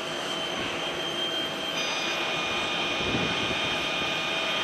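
Airbus A320's CFM56 turbofan engines running at taxi power: a steady jet whine with several high tones over a rush of noise. The whine's pitch shifts about two seconds in.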